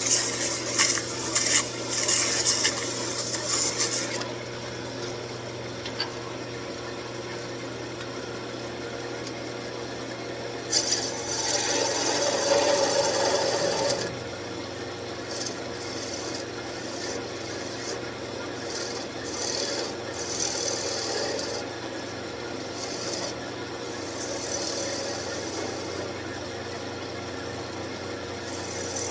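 Wood lathe running with a steady motor hum while a turning tool scrapes and cuts the spinning wood in passes. There are several seconds of cutting at the start and a longer, louder pass about halfway through, with shorter touches of the tool after it.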